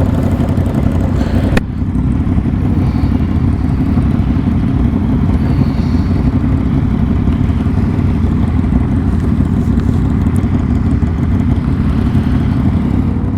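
A 400 cc motorcycle engine running loud and steady, a deep rumble, with a single click about a second and a half in.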